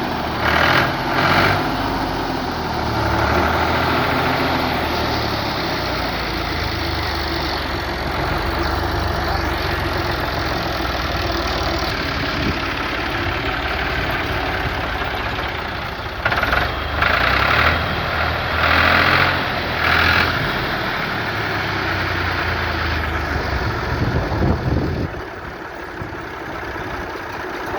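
Ford 3610 tractor's three-cylinder diesel engine running steadily. It picks up briefly, louder and brighter, about a second in and three times between about 16 and 20 seconds, then settles quieter near the end.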